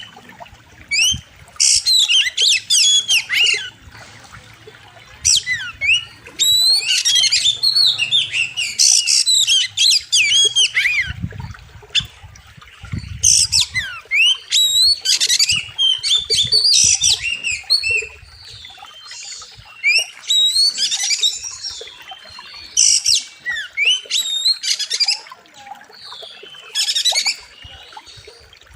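Oriental magpie-robin (kacer) singing a loud, sharp, varied song in rapid phrases that come in bursts with short pauses between them. This is the song bird-keepers call full of 'isian', mimicked phrases of other birds.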